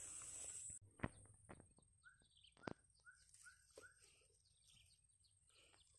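A bird chirping a quick run of five short, identical notes between about two and four seconds in, against near silence, with a few faint sharp clicks.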